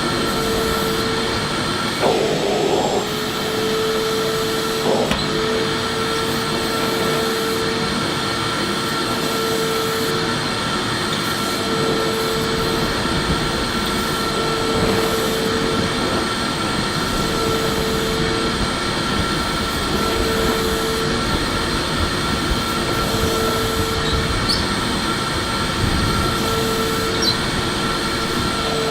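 Electric vacuum cleaner running steadily: an even rush of air with a constant whine, and a short bump about two seconds in.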